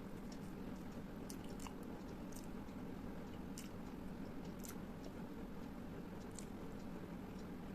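A person chewing food close to the microphone, with scattered short sharp mouth clicks over a steady low background hum.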